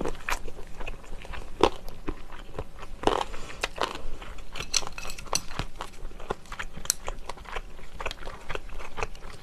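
Close-miked chewing of soy-braised chicken with crunchy cartilage: a steady run of small crisp crunches and wet mouth clicks.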